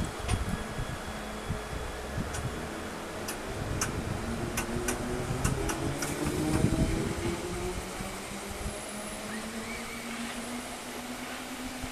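A Bakerloo line tube train pulling out of the platform and accelerating away, its motors whining up in pitch as it gathers speed. A run of sharp clicks comes a few seconds in, and the train is loudest about two-thirds of the way through.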